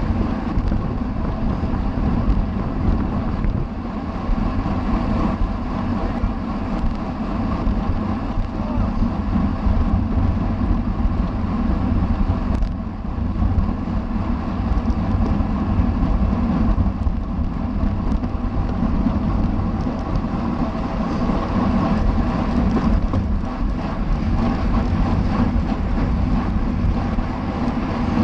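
Steady wind noise buffeting the microphone of a camera on a bicycle racing at speed.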